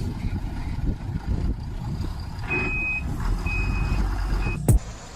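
Heavy truck engine running, with a reversing alarm beeping three times at one steady high pitch. A sharp click near the end is the loudest moment, and the engine sound drops after it.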